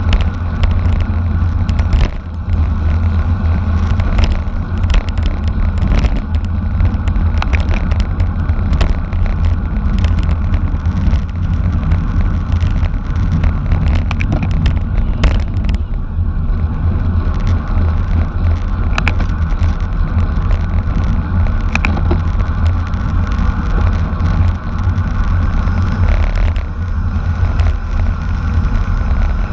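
Steady, loud low rumble of wind and road noise from a racing bicycle in motion, with scattered sharp clicks and rattles.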